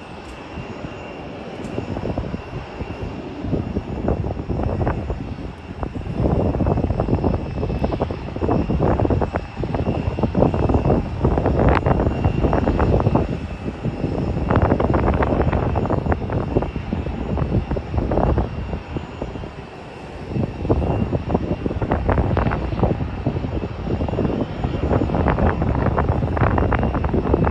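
Jet airliner engines running with a faint steady whine, under heavy wind buffeting the phone microphone in irregular gusts that swell and drop.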